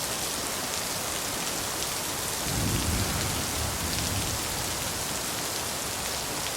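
Recorded steady rain falling, with a low rumble of thunder swelling about two and a half seconds in and fading out over the next two seconds.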